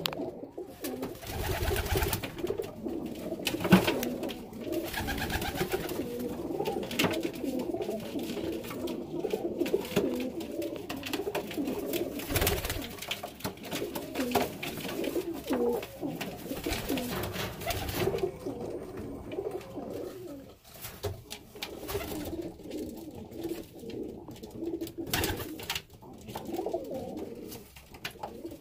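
Several domestic pigeons cooing continuously and overlapping one another, with a few short sharp noises mixed in.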